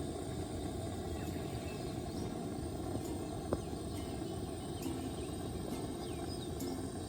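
Steady low outdoor ambient rumble, with faint high bird chirps scattered through it and a single sharp click about three and a half seconds in.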